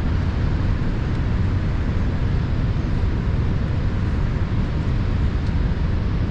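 Steady low rumble of a moving car's road and engine noise, even throughout.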